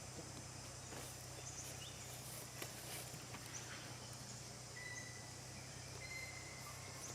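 Faint outdoor ambience: a steady low hum under scattered small clicks and rustles, with a few short, thin, high chirps.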